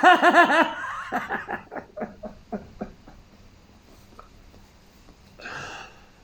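A man laughing: a run of quick pulsed chuckles that grows fainter and dies away over about three seconds, followed by a short breath near the end.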